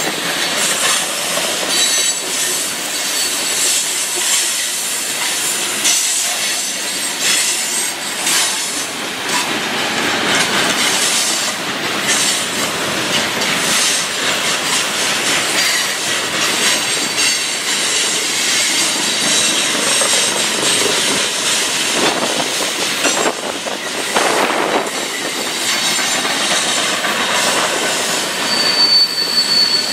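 Freight train rolling past, its steel wheels squealing in several high tones that come and go over a steady rush of wheel and rail noise.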